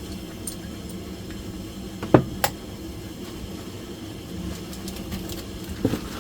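Work on engine parts: a sharp knock about two seconds in, a lighter one just after, and another near the end, over a steady low hum.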